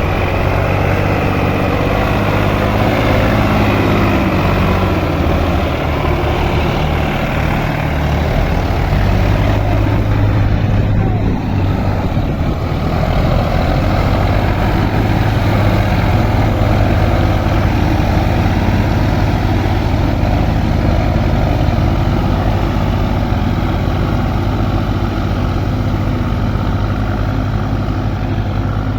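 Sonalika DI 740 tractor's diesel engine running steadily, a loud low hum with noise above it that holds without pause for the whole stretch.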